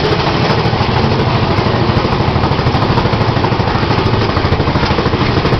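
Mine-train roller coaster running along its track, heard from on board: a loud, steady rumble with a fast, even rattle.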